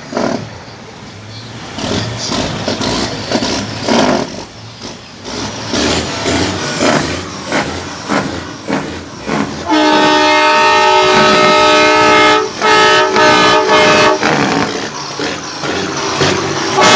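A truck's air-powered train horn blasting a loud chord of several notes for about four seconds, with a brief break in the middle and another blast at the very end. Before the horn there is about ten seconds of uneven noise from the crowd and vehicles.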